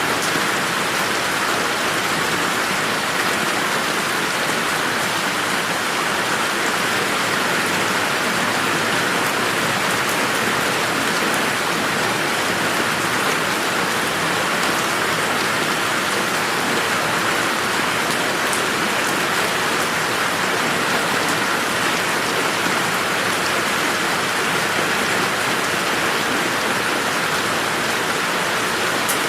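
Steady rain falling on a garden: an even, dense hiss of drops with no thunder.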